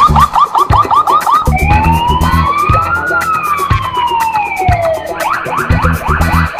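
Electronic siren sounding over backing music with a steady beat. It starts with quick rising yelps, about five a second, changes at about a second and a half to one slow wail rising and then falling, and goes back to quick yelps at about five seconds in.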